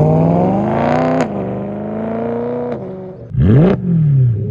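BMW M3's S65 V8 with a muffler-delete exhaust revving. The revs climb over the first second and hold, then two quick blips near the end each rise sharply and drop back.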